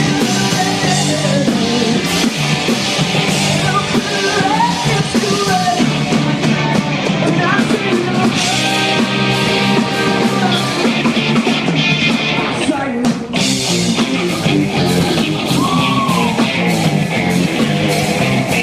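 Rock band playing live: drum kit with cymbals, guitars and bass, with some sliding, bent notes, and a short drop-out about thirteen seconds in.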